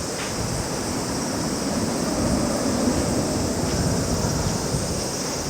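Steady rushing roar of a jet airliner's engines, mixed with wind, swelling slightly midway.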